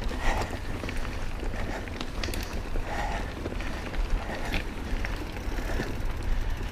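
Mountain bike riding over a rocky trail: tyres rolling on rock and the bike rattling, with scattered clicks and knocks, over a steady rumble of wind on the microphone.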